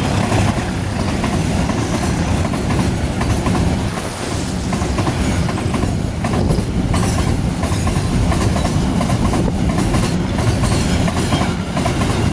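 Long-distance passenger train rolling past at speed, a steady loud rush of wheels on rail with repeated clicks as the wheels cross rail joints.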